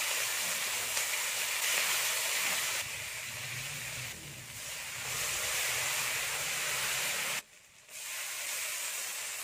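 Ground chili paste sizzling in hot oil in a frying pan, a steady hiss. It cuts out briefly about seven and a half seconds in, then carries on a little quieter.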